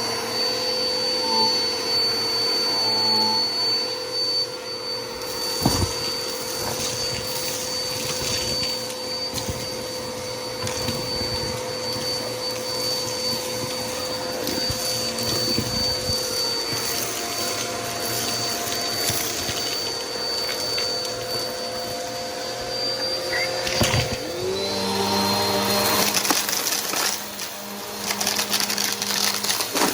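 Bissell PowerForce Helix upright vacuum running with a steady motor whine. A single sharp click comes about six seconds in. Near the end the motor pitch drops and the sound changes to a lower, noisier rush.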